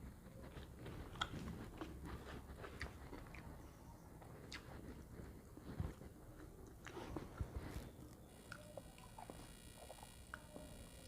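A person eating: quiet chewing with scattered small crunches and clicks.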